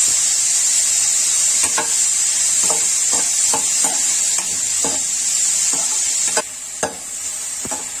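Sliced mushrooms and onion greens sizzling in oil in an aluminium kadai, stirred with a perforated metal spoon that taps and scrapes against the pan again and again. The sizzle drops sharply about six seconds in.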